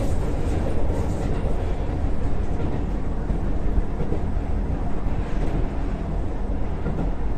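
Keisei 3700-series electric train running at speed, heard from inside the front car: a steady low rumble of wheels on rail.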